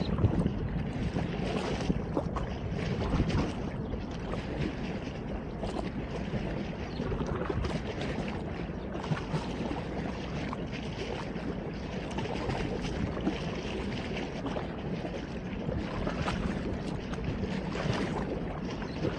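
Steady outdoor wind and water noise, with small irregular ticks and crackles throughout.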